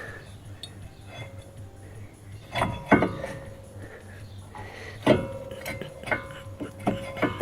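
Metal tools and brake parts clinking and knocking together, several sharp strikes, some of which leave a ringing metallic tone for a second or two.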